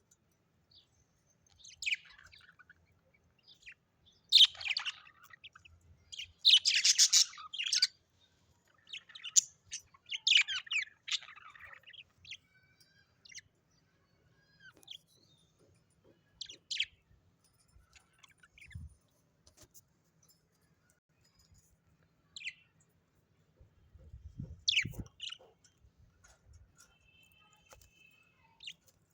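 Pet parrots giving short, scattered chirps and harsh squawks, busiest and loudest in the first ten seconds or so and sparser after. A couple of low thumps come later on.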